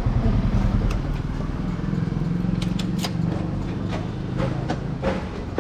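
A vehicle's engine rumbling, slowly fading, with a few sharp ticks.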